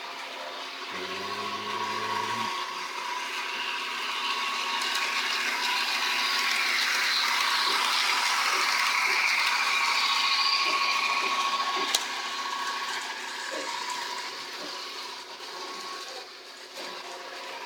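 HO scale model trains running on the layout: a steady whine from the locomotive motors and the rattle of wheels on track, growing louder as a train comes close about halfway through. A brief low tone sounds about a second in, and a single sharp click comes near the end.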